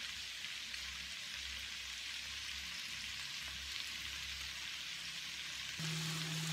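Smoked sausage slices, onions and green bell peppers sizzling steadily in a nonstick grill pan. A steady low hum comes in near the end.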